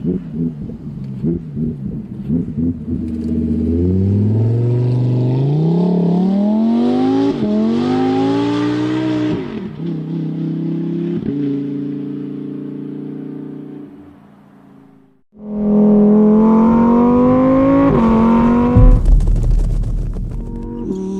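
Lamborghini Huracán Sterrato's naturally aspirated V10 engine and exhaust accelerating hard, its note climbing in pitch, easing off and running steady, then fading away. It returns suddenly loud, climbs again and drops in pitch with an upshift near the end.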